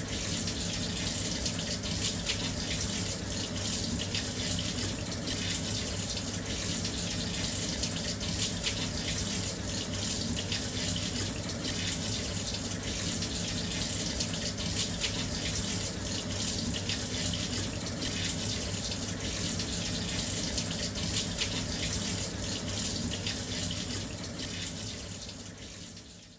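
Washing machine filling with water: a steady rush of water pouring into the drum, with a low hum beneath it. It fades out over the last couple of seconds.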